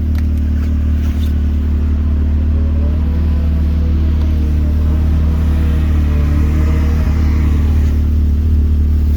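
Side-by-side UTV engines running steadily, with a revving engine's pitch rising and falling between about three and seven seconds in as a machine works to push through ice.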